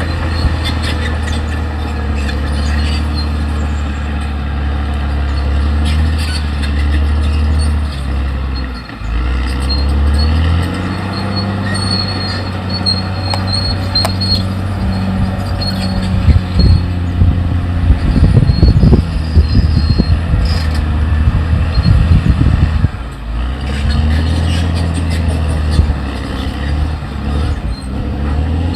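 Caterpillar D6R XL crawler dozer's diesel engine running steadily under load, its pitch dipping briefly about nine seconds in. From about sixteen to twenty-three seconds a loud, irregular clattering rises over the engine sound.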